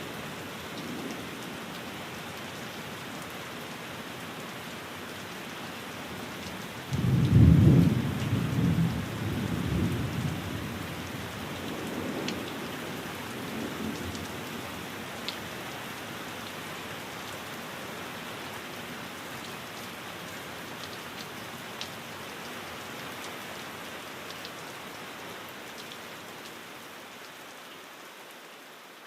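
Steady rain, with a low thunder rumble that breaks in suddenly about seven seconds in and dies away over the next several seconds. A few sharp ticks sound over the rain, which grows gradually fainter near the end.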